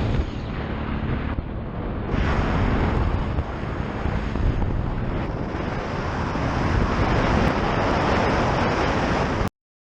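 Heavy wind buffeting on the camera microphone while riding a BMW R1200GS Adventure motorcycle, with the bike's running faintly underneath. The noise cuts off suddenly near the end.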